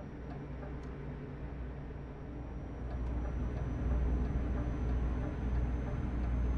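Truck engine and cab rumble heard from inside the cab, growing louder about three seconds in. Faint regular clicks of the turn-signal indicator sound about every two-thirds of a second.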